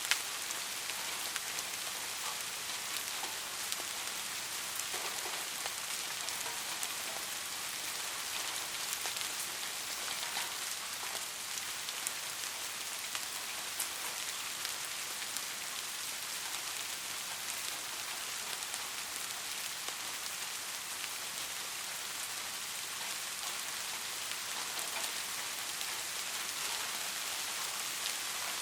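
Steady rain falling: an even hiss of rainfall with scattered individual drops ticking on a surface.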